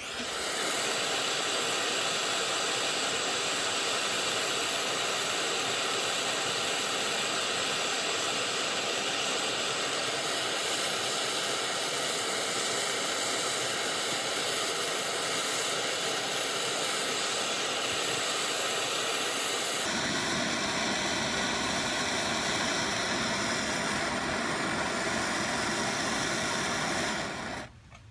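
Handheld propane torch burning with a steady hiss, heating a seized broken bolt stub to free it for extraction. About two-thirds through, a deeper rushing sound joins the hiss, and it cuts off shortly before the end.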